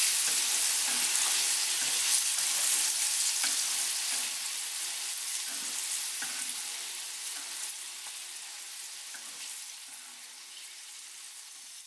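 Flour-coated sweet corn kernels frying in hot oil in a nonstick pan with a steady sizzle, stirred with wooden chopsticks. The sizzle fades steadily toward the end.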